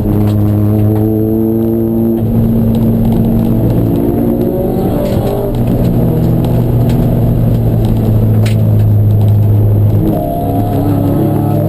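Racing car engine running steadily at high revs. Its pitch drifts slightly up and down, and the level dips briefly about ten seconds in.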